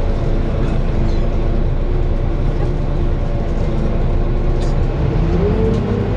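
Volvo B9TL bus's six-cylinder diesel engine running, heard on board, steady, then rising in pitch about five seconds in as it picks up speed.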